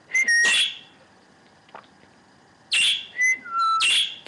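Pet parakeet chirping loud: a quick burst of whistled chirps, then after about two seconds a second run of several chirps and short whistles.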